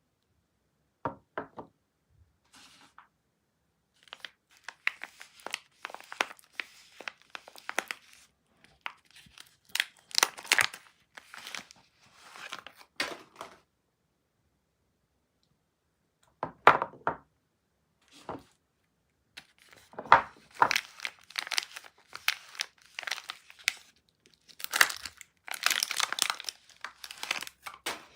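Soap packaging being unwrapped by hand: bursts of crinkling and tearing wrapper, broken by short silent pauses, loudest in the last few seconds.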